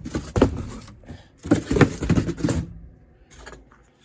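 Two bursts of clattering knocks, each about a second long, from things being handled and bumped, with a low rumble under them; then it goes quiet apart from a few faint knocks.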